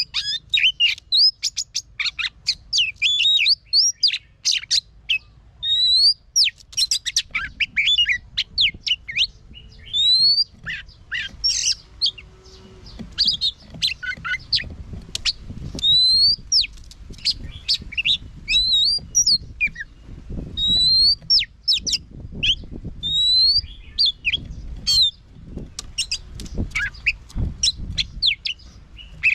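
Oriental magpie-robin singing a long, varied song: clear rising whistles mixed with quick chips and trills, in phrases broken by short pauses.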